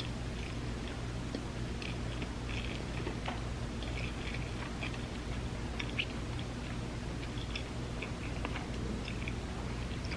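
Chewing of a vegan spam musubi (rice, nori and vegan spam): soft, irregular wet mouth clicks, over a steady low hum.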